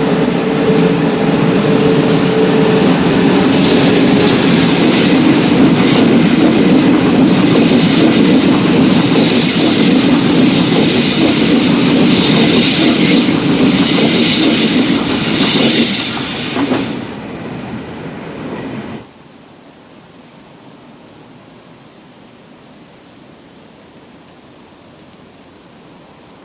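ÖBB Railjet push-pull train, hauled by a class 1116 Taurus electric locomotive, passing close by with loud wheel and rail noise and steady tones, the sound dying away after about 17 seconds. Insects then chirp steadily in the quiet.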